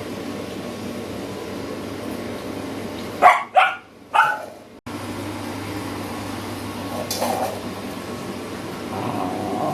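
Three short, loud animal calls in quick succession a few seconds in, then fainter calls later, over a steady background noise.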